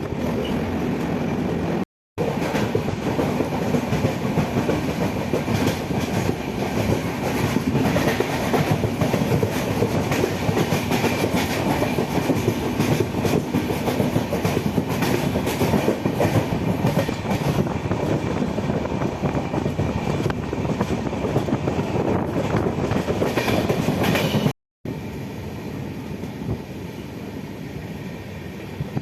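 Passenger train running on the Konkan Railway line, a loud steady rumble with the clickety-clack of wheels over the rails. It cuts out to silence twice, briefly near the start and again near the end, and is quieter after the second break.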